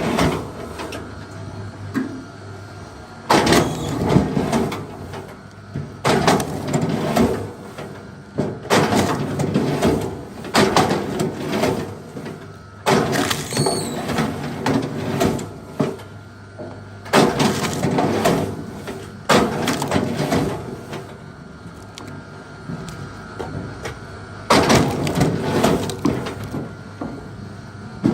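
Axe blows on a big log, coming irregularly every one to three seconds, each a sharp strike with a short ring after it.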